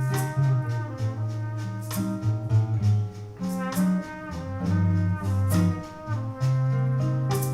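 Live jazz combo playing an instrumental break in a slow ballad: a trumpet carries the melody over guitar and percussion, with sharp percussive accents about once a second.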